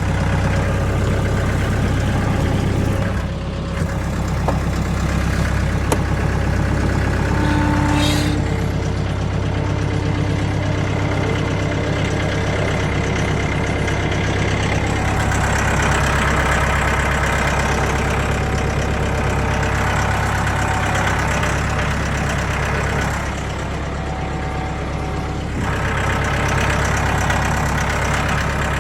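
Diesel tractor engine running steadily while the tractor is driven, its note easing briefly a few seconds in and again near the end.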